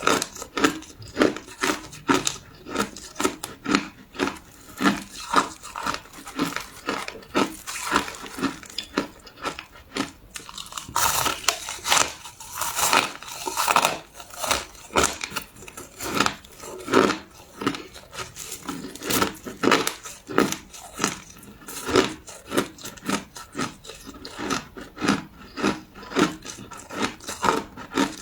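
Crushed ice being chewed: a steady run of crisp crunches, about two a second, thickening into a denser grinding crunch around the middle.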